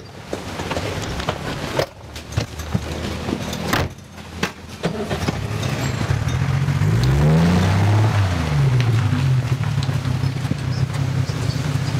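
Car engine running, its pitch rising and then falling about two-thirds of the way through, after a few sharp knocks in the first few seconds.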